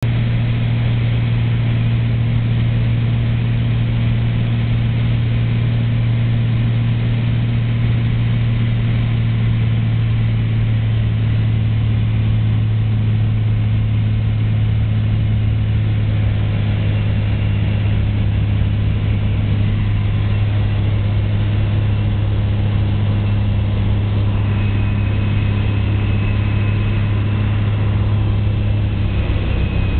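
Cessna 182's single piston engine and propeller droning steadily on the landing approach, its pitch dropping slightly near the end.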